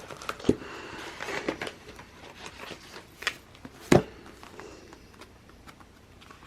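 Handling noise at a desk while working with a paper planner: two sharp knocks, the second just before four seconds in and the loudest, a lighter click, and soft paper rustling.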